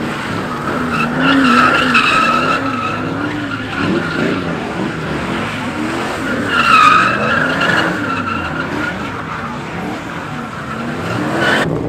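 Car tyres squealing continuously as a car spins donuts, the screech swelling twice, with the engine revving underneath. The sound changes abruptly near the end.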